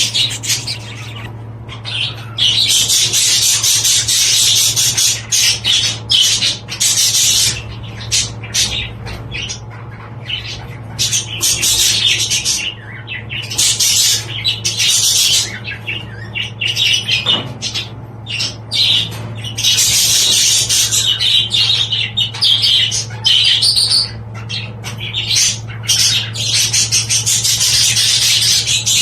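Budgerigars chattering and warbling in busy stretches of a few seconds each with short breaks between, over a steady low hum.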